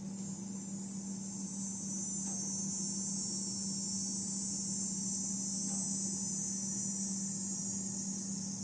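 Crickets chirring in a steady, high-pitched chorus, with a low steady hum underneath.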